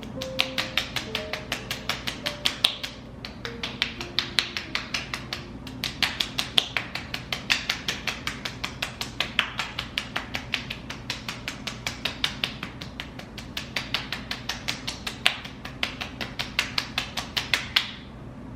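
Fingertips tapping quickly on the skin of the face, about five light taps a second, in runs of a few seconds with brief pauses between them.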